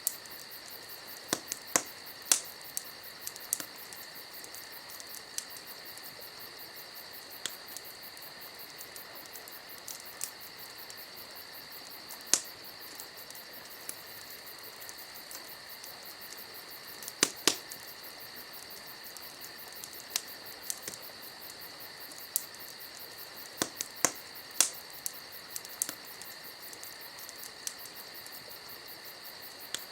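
Wood campfire crackling, with irregular sharp pops and snaps, over a steady, high chorus of crickets.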